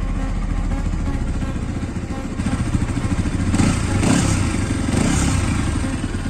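Bajaj Pulsar NS200's single-cylinder engine running just after a cold start, with a louder, busier stretch in the middle that sounds like the throttle being opened, before it settles again near the end.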